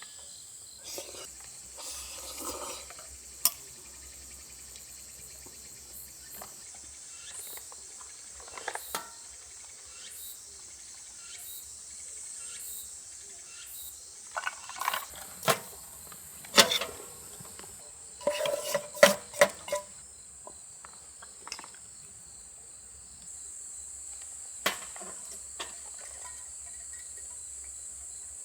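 Crickets chirring steadily at a high pitch, with scattered clicks and clinks of things being handled, a cluster of louder clinks about two-thirds of the way through.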